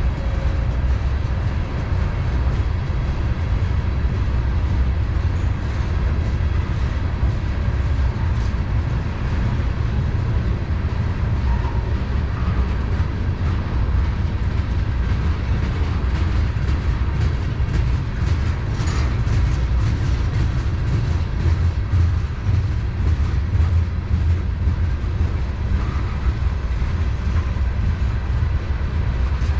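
Freight train rolling past: a steady low rumble of railcars on the track, with scattered faint clicks.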